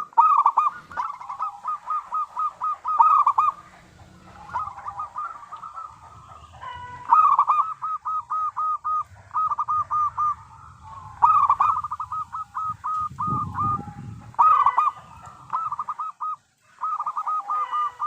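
Zebra dove (perkutut) cooing: phrases of quick, evenly repeated notes, several phrases with short pauses between them.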